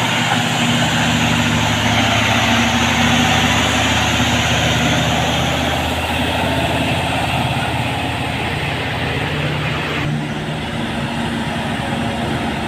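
Heavy diesel truck engine running steadily, a low hum with engine tones, turning duller from about ten seconds in.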